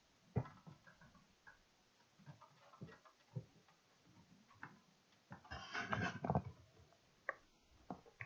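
Irregular light clicks and knocks, with a denser burst of clatter about five and a half to six and a half seconds in.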